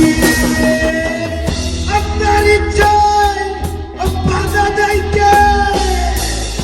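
Bangla rock song played by a band: drums and bass under long held melody notes.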